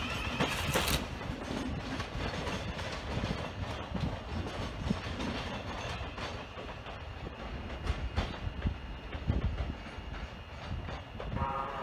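A train running on the rails, a steady rumble with scattered clicks as its wheels pass over rail joints.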